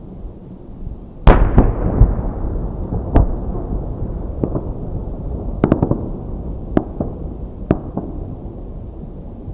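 Aerial fireworks shells bursting: one loud boom about a second in, followed by a long rolling rumble and a string of sharp cracks and pops.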